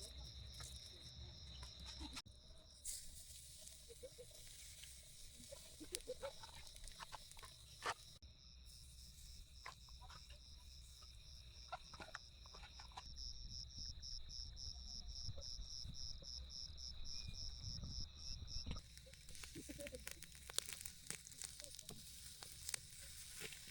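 Insects trilling at a high pitch, turning to a fast even pulsing from about eight seconds in until near the end, with scattered light clicks and knocks throughout.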